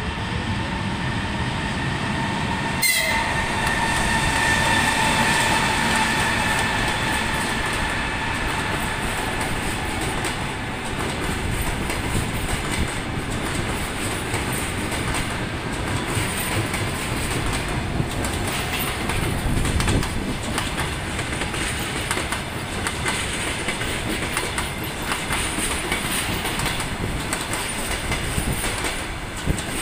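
Passenger train hauled by an EP20 electric locomotive running through a station. A steady high tone comes in about three seconds in and fades over the next several seconds as the locomotive goes by, and then the coaches roll past with a continuing clickety-clack of wheels over the rails.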